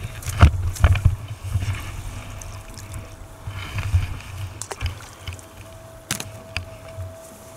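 Rod and fixed-spool reel being worked while a hooked barbel is played in: scattered knocks and clicks of handling, loudest in the first second, over a low rumble of wind on the microphone, with a faint steady whine in the background.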